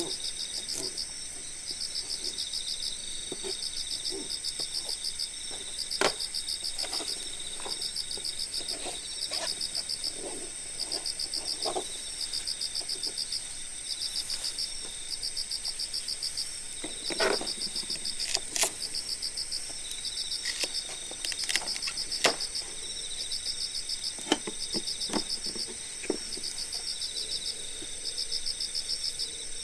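Insects chirping in repeated short pulsed trains over a steady high-pitched trill, with sharp crackles and pops from a wood campfire scattered throughout.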